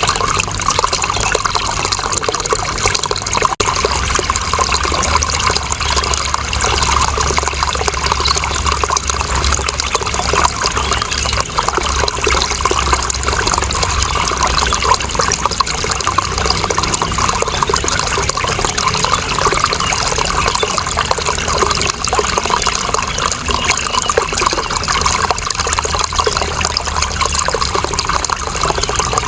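Steady running water, a continuous rush and splash without a break, with a low rumble joining underneath about three and a half seconds in.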